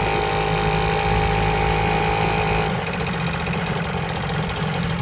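Vehicle engine running steadily at a low, even speed, with a steady higher whine over it that stops about halfway through.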